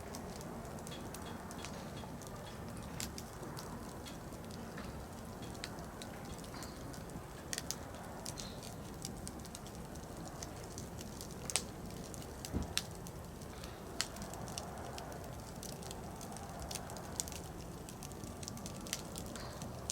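Wood campfire crackling: irregular sharp snaps and pops of burning firewood over a low steady rustle, with a few louder pops about midway.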